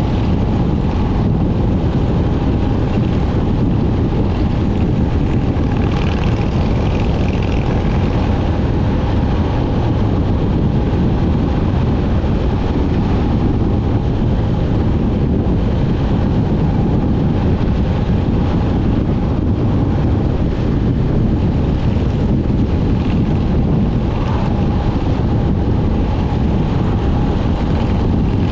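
Motorcycle on the move at a steady speed, its engine note held even under a constant rush of wind rumble on the microphone.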